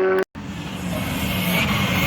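A steady engine note cuts off abruptly about a quarter second in. Then a rally car's engine is heard approaching at speed, growing steadily louder.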